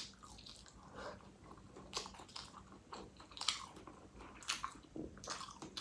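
Faint close-up chewing of spicy boneless pork trotter, with scattered soft wet mouth clicks and a sharper click as the bite goes in at the start.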